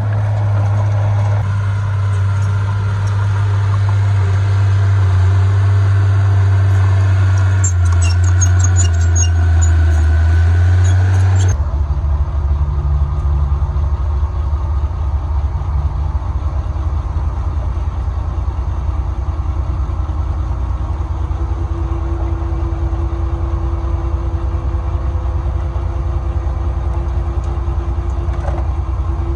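Heavy diesel engines of earthmoving machinery running steadily. The sound changes abruptly about eleven seconds in, and a few faint high clicks come shortly before that.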